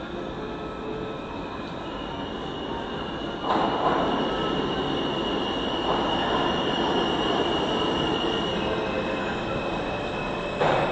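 R160 subway train running on the track, with a thin, steady high squeal over the running noise. The noise grows louder about a third of the way in, and a couple of sharp knocks come near the end.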